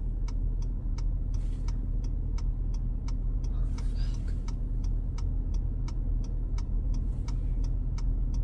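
A car's indicator relay ticking steadily, about three clicks a second, over the low steady rumble of the car idling.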